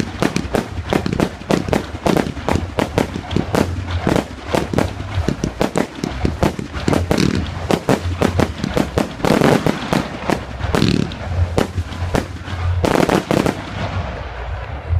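Fireworks display: a rapid barrage of bangs and crackling bursts, many per second, thinning out near the end.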